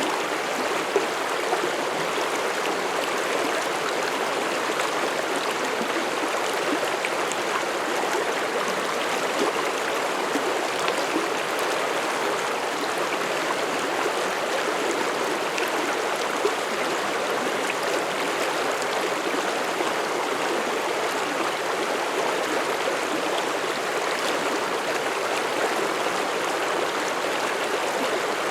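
Mountain stream flowing over rocks: a steady rushing and babbling of water, with a few small splashes standing out now and then.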